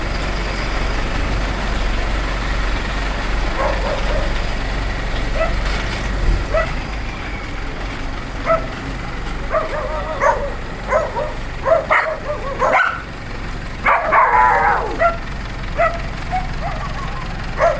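Tractor engine running steadily, with a dog barking and yipping in short, repeated calls from a few seconds in, including one longer wavering call about three-quarters of the way through.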